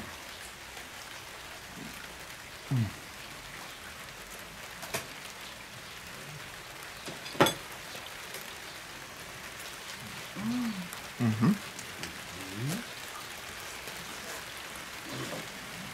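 Steady hiss of light rain, with a few short hummed 'mm' sounds from people eating and a sharp clink of a fork on a plate about seven and a half seconds in.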